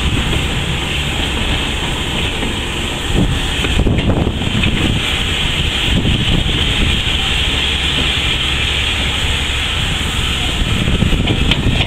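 Heritage railway train running, a steady rumble with a rush of noise over it.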